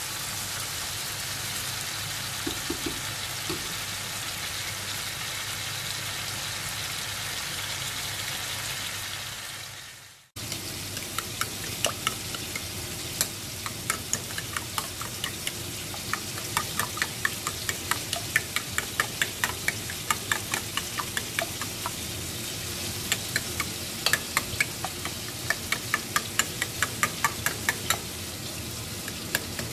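Sliced tomato, cucumber and onion sizzling as they fry in oil in a frying pan, stirred with a spatula; the sizzle fades out and stops about ten seconds in. Then a metal spoon beating raw eggs in a bowl, clicking sharply against the bowl several times a second.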